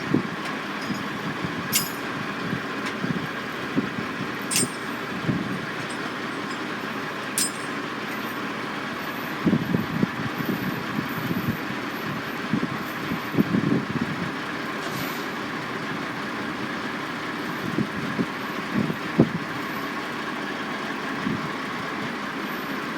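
Construction-site noise: a steady hum of heavy machinery and trucks, with irregular low rumbling surges. Three sharp clicks come about three seconds apart in the first part.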